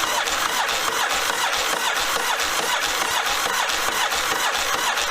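1982 Yamaha Virago 750 V-twin being cranked over on its electric starter with the choke on, a steady mechanical churn with even rhythmic pulses. The engine has not yet caught.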